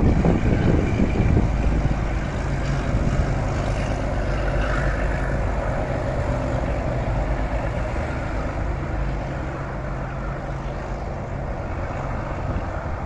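Diesel-hauled passenger train pulling away and receding: a rumble of wheels on rails, loudest at first, fades while the locomotive's diesel engine drones steadily underneath.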